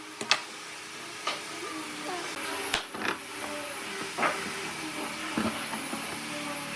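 A steady mechanical hiss, with about half a dozen sharp knocks and clicks scattered through it.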